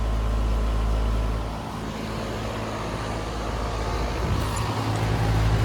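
A 2013 Carrier Comfort 5-ton outdoor condensing unit running: a steady compressor hum under the rush of the condenser fan, with a low rumble that dips briefly twice.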